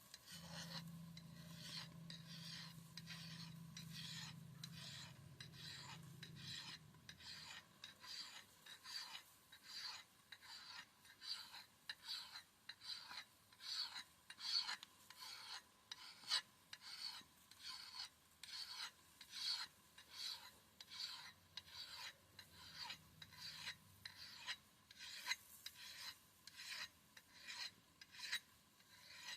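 Ax blade being sharpened: a long run of even rasping strokes, about one and a half a second. A faint low hum lies under the first several seconds.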